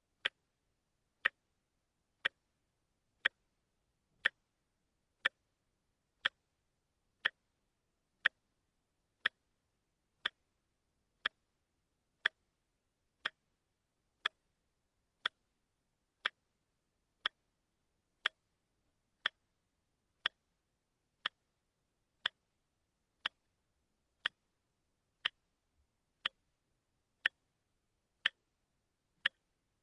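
Watch ticking steadily, one short sharp tick a second with silence between.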